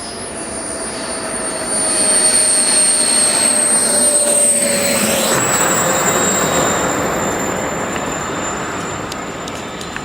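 Four small jet turbines of a 1/13 scale Airbus A380 RC model in flight: a high turbine whine over a jet rush. It swells about two seconds in and then fades, the whine sliding gently down in pitch as the model passes.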